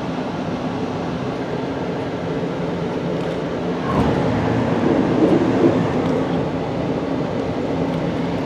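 Steady running noise of a passenger train, heard from inside a car, growing louder about four seconds in.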